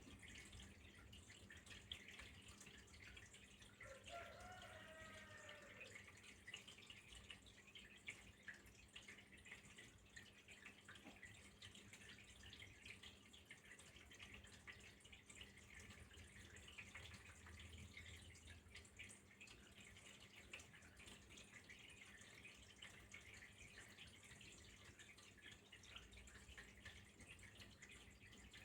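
Faint trickling, dripping water: a continuous patter of tiny splashes. A brief, faint wavering pitched call sounds about four seconds in.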